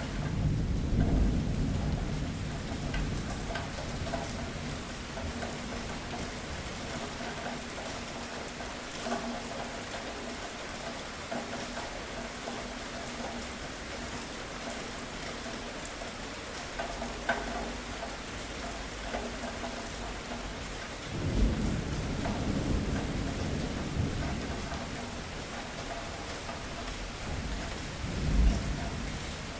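Steady heavy rain with thunder rumbling three times: a long rumble at the start, another about two-thirds of the way through, and a shorter, sharper clap near the end.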